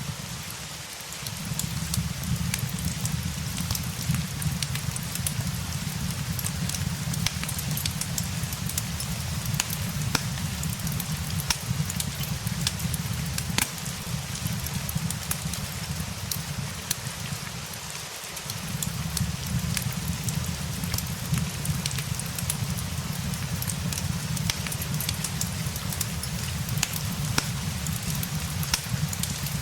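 Steady rain mixed with a crackling fireplace: an even hiss of rain, frequent small sharp pops and crackles from the fire, and a low steady rumble underneath that drops away briefly twice.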